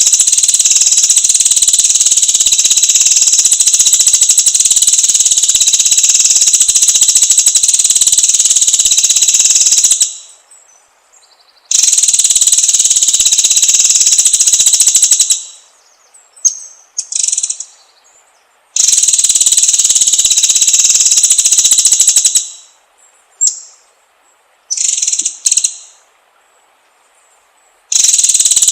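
Loud, steady, high-pitched insect buzzing that stops and starts in long stretches of several seconds. In the gaps come a few short, high bird notes.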